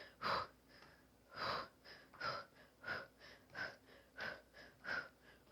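A woman breathing hard under exertion, with short, rhythmic, forceful breaths, about one every 0.7 seconds, in time with repeated heel-touch crunches.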